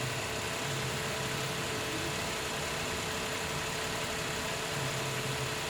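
Subaru Outback engine idling steadily.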